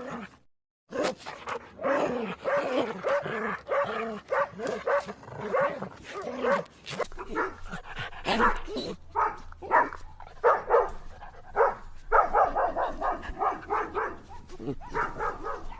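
A dog barking repeatedly in quick, short calls, after a brief silent break just after the start.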